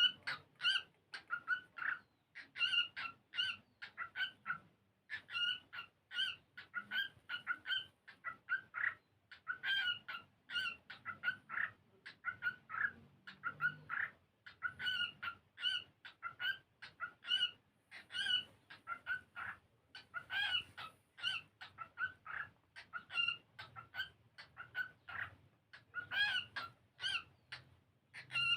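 Cockatiel singing: a long, unbroken run of short, repeated chirps and whistles, a few each second.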